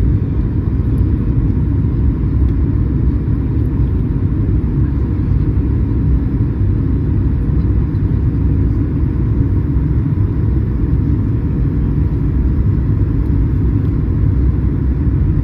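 Airliner cabin noise: a steady low rumble of jet engines and airflow, even throughout.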